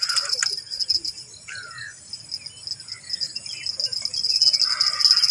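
Insect chorus chirring steadily in a high-pitched trill, with a second, lower buzz joining near the end.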